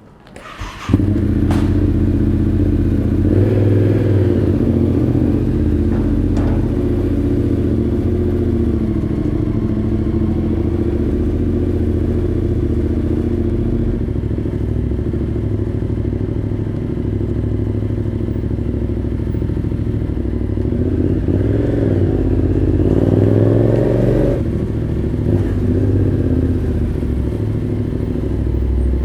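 Yamaha Ténéré 700's 689 cc parallel-twin engine, breathing through an Arrow full exhaust system, starting up about a second in and then idling steadily. Its revs rise briefly about three quarters of the way through.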